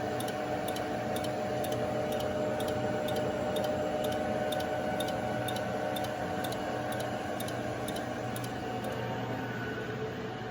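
Steady machine hum with faint, regular ticking, about two to three ticks a second.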